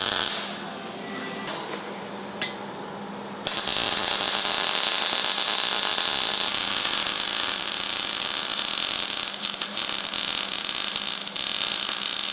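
Welding arc laying a bead around a plate on a rear axle tube: a short tack right at the start, then a long steady crackling hiss from about three and a half seconds in until just before the end.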